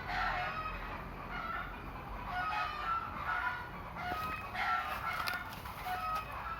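Free-range village chickens calling and clucking over one another in many short, overlapping calls.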